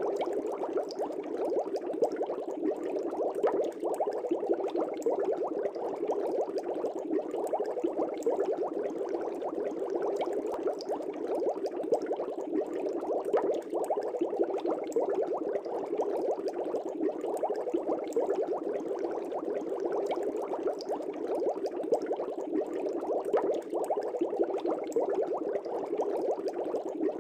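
Fish tank bubbles rising through the water: a steady, dense bubbling of many small pops that does not change.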